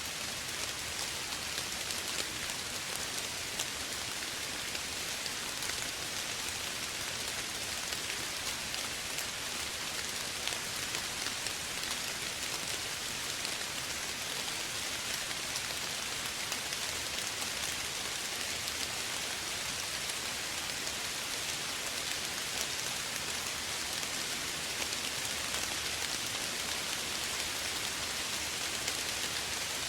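Steady, soft rain falling, an even hiss of many small drops pattering on a surface.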